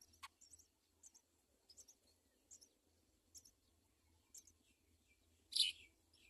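House sparrows chirping: short high chirps about once a second, with one louder chirp near the end.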